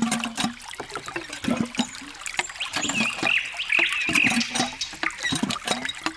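Small water trickling and dripping in quick drops and plinks, with frequent small clicks.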